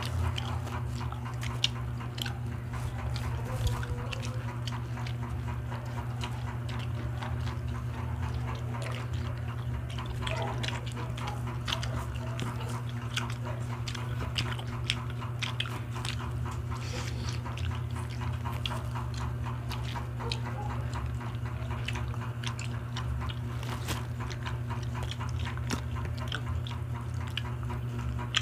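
People chewing and smacking their lips as they eat, with many small wet clicks throughout, over a steady low hum.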